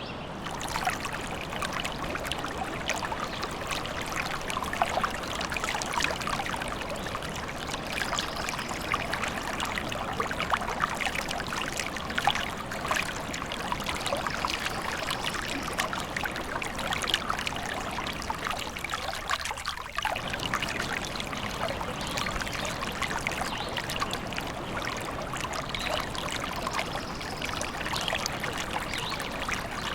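Stream trickling and babbling steadily, with many small quick splashes.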